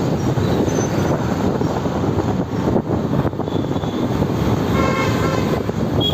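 Steady wind and road noise from riding a motorbike in city traffic. A vehicle horn honks briefly about five seconds in.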